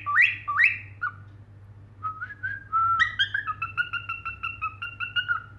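Cockatiel whistling: two rising whistled notes at the start, then after a short pause a quick string of short whistled notes, about four a second.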